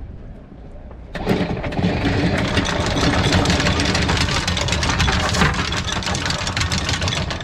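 A small boat engine comes in abruptly about a second in and keeps running steadily with a dense rattle.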